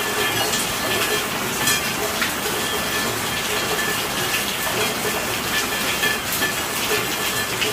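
Steady rainfall: an even hiss of rain with scattered sharper drop hits.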